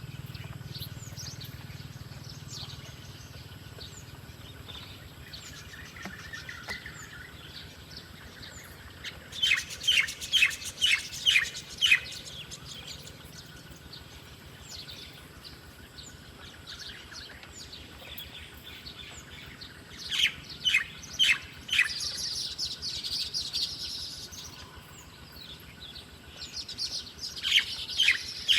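Birds chirping: a few runs of rapid, sharp, repeated chirps stand out over fainter scattered calls of other birds.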